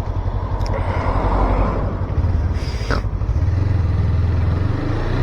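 Motorcycle engine running at low speed in traffic, with wind noise over the helmet-mounted microphone. Its note rises gently in the last second or two as the bike picks up.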